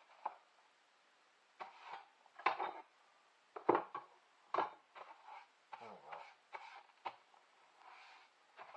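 Irregular knocks and clatters of small hard objects being picked up and set down on a work surface, about a dozen in all, loudest about two and a half and nearly four seconds in.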